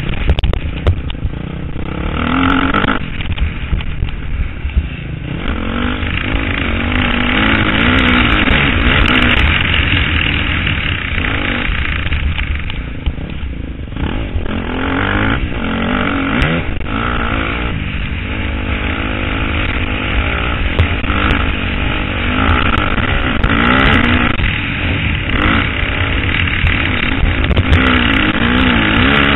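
KTM 250 SXF motocross bike's four-stroke single-cylinder engine revving hard and easing off again and again as it is ridden around the track, heard from a helmet-mounted camera.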